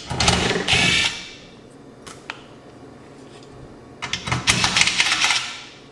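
Hand work on the receiver's plastic display-support post as it is pried loose: two stretches of scraping and rattling, one lasting about a second and another from about four seconds in, with a couple of small clicks between.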